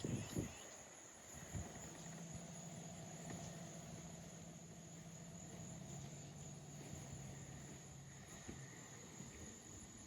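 Faint, steady insect chirring in the background, with a low steady hum through most of it and a few soft knocks at the start.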